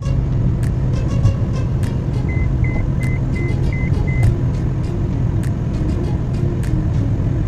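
Car driving along a motorway: steady low road and engine rumble, with scattered sharp ticks and a short run of high beeps about two to four seconds in.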